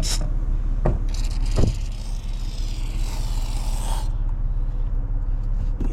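Raid insecticide aerosol can hissing in one spray of about three seconds, after two short knocks, over a steady low hum.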